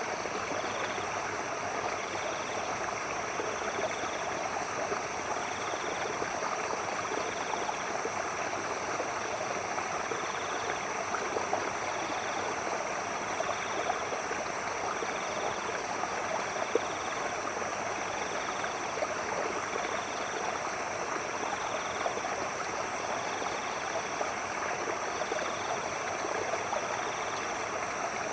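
A stream's water flowing and trickling steadily. Night animals call over it: a steady high drone and a short call repeating about once every second and a half.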